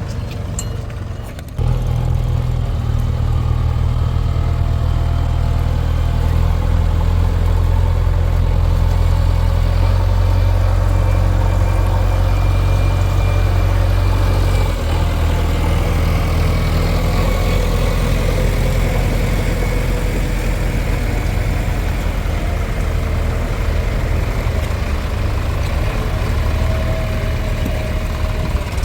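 Heavy diesel machinery engine running, deep and steady, with a sudden step up in loudness about a second and a half in.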